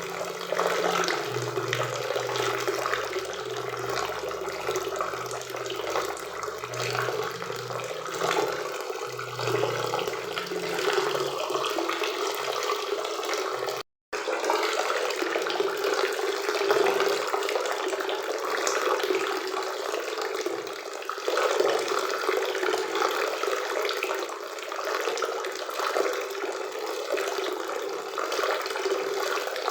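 Steady rushing of a river and waterfall, a dense, even water noise, cut by a brief dropout to silence about halfway through.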